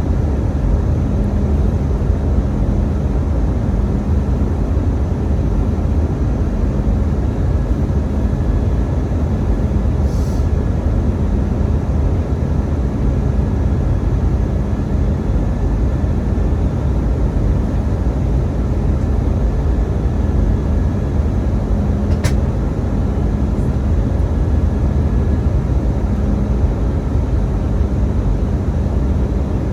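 Steady, loud cabin noise of an Airbus A319, a low rumble of engines and airflow, with a hum that swells and fades about once a second. A brief hiss about ten seconds in and a single sharp click about twenty-two seconds in.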